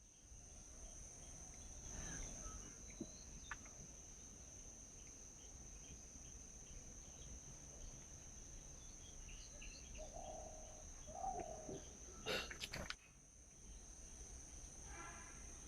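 Faint outdoor morning ambience: a steady high-pitched insect drone with scattered bird chirps and calls over it. A few sharp clicks come close together about twelve seconds in.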